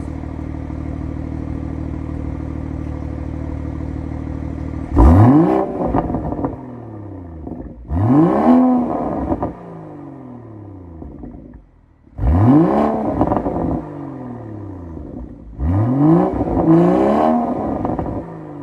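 BMW 440i's B58 3.0-litre turbocharged straight-six, breathing through a Dinan free-flow exhaust and high-flow mid-pipe, idling steadily and then blipped four times. Each rev rises sharply and falls back to idle, with the engine at full operating temperature.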